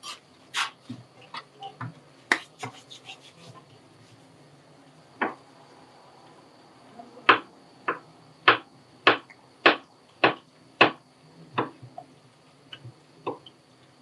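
A run of sharp clicks and knocks: a quick flurry in the first few seconds, then a steady series of about ten knocks roughly every half second, from about seven seconds in.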